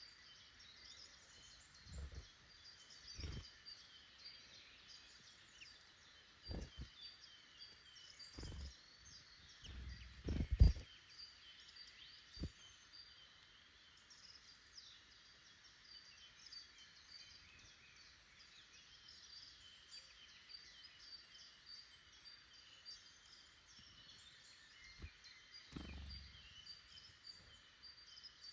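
Woodland birds calling and singing continuously in the background, a steady chatter of chirps and short trills. A handful of low thumps stand out over it, the loudest about ten seconds in.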